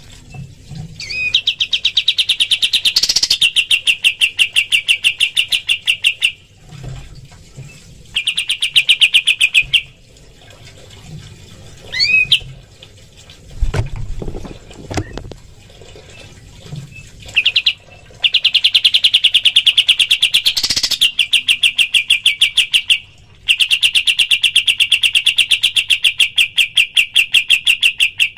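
Kapas tembak songbird giving its rapid 'tembakan' trill: long runs of fast, sharp repeated notes, broken by pauses, with a few quick upward-sweeping whistles. The longest pause falls in the middle, before two long runs near the end.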